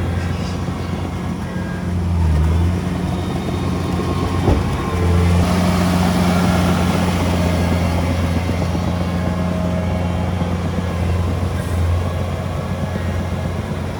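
Heavy diesel engine of earthmoving equipment running steadily, pulling harder and louder from about five seconds in. There is a single sharp knock just before that.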